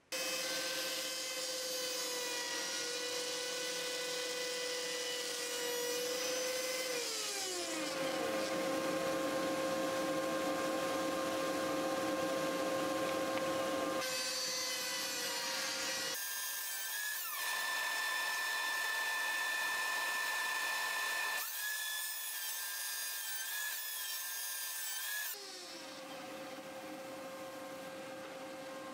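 Electric woodworking power tools running on oak, a steady high motor whine with a falling pitch about seven seconds in, in several clips joined by sudden cuts.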